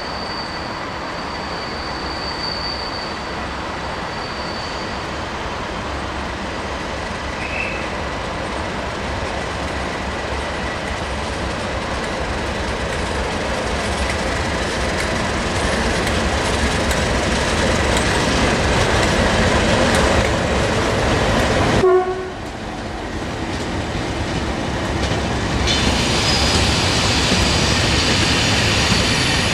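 Class 37 diesel locomotive with a yellow test train running into the station: a steady rumble growing louder as the locomotive approaches and passes. The sound drops off suddenly about two-thirds through, then builds again as the coaches roll past, with a brighter hiss of wheels on rail near the end.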